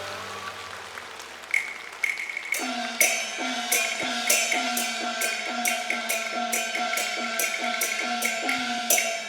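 Cantonese opera percussion, gongs and cymbals, strikes an even beat of about two to three strokes a second, each gong stroke sliding down in pitch. The melodic accompaniment fades out in the first second or so before the strokes begin.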